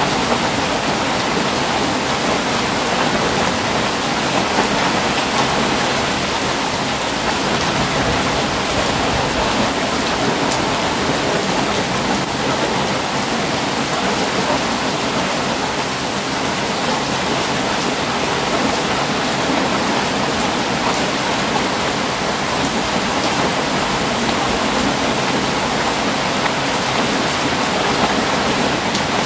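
Heavy rain falling in a steady, even hiss, with no thunderclaps.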